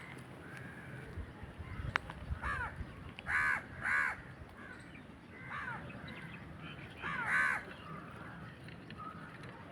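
Crows cawing in the background, a handful of short, harsh calls, the loudest a pair about three and a half to four seconds in and another about seven seconds in.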